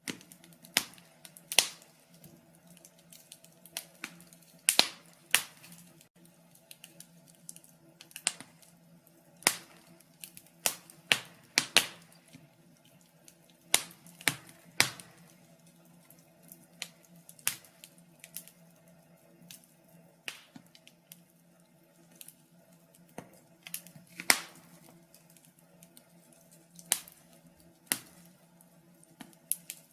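Wood fire crackling in a fireplace: irregular sharp pops and snaps, some much louder than the rest, over a faint low steady hum.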